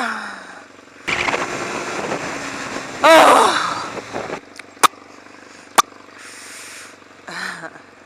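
Riding noise from a Yamaha XJ600's air-cooled inline-four and the wind. It surges about a second in and dies away over the next three seconds, with a brief falling whine inside the surge. Two sharp clicks come a second apart in the middle.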